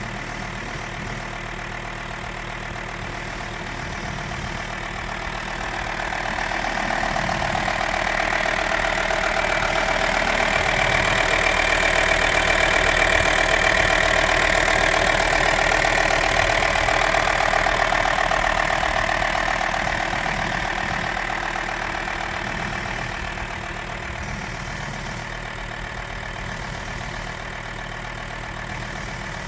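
Volkswagen T5 van engine running steadily at idle. It grows louder from about six seconds in, peaks in the middle, then eases back to its earlier level.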